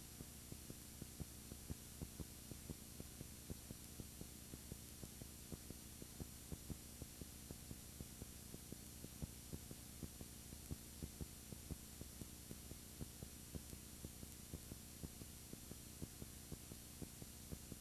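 Steady electrical hum and hiss with irregular faint clicks several times a second: noise from a broken camera's audio rather than any sound of the scene.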